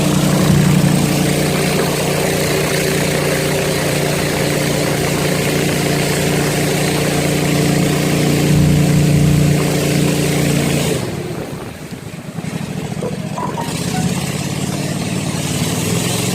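Fishing boat's engine running steadily under way. About eleven seconds in its sound drops away for a few seconds, then picks up again.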